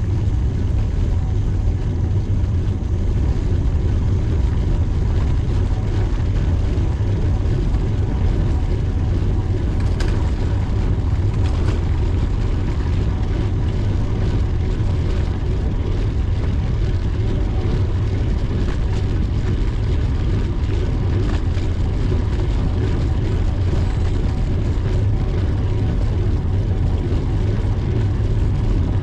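Steady low rumble of wind buffeting the microphone, with road noise underneath, as from a camera on a moving bicycle.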